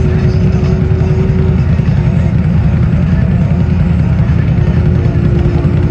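Loud, steady low rumble of a mud truck's big engine, with a faint held tone above it.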